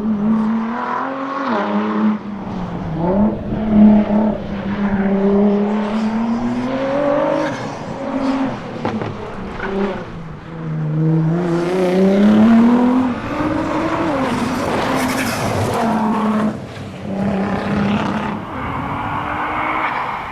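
Nissan R35 GT-R's twin-turbo V6 driven hard on a rally stage, its note rising and falling again and again through gear changes and throttle lifts, with a rushing hiss for several seconds past the middle.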